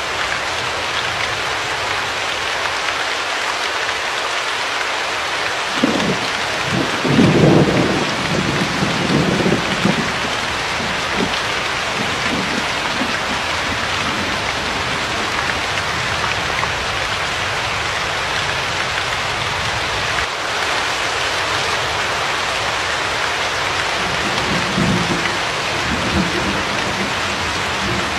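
Steady rain hiss with thunder rumbling: a low roll builds about six seconds in and dies away over the next few seconds, and a weaker rumble comes near the end.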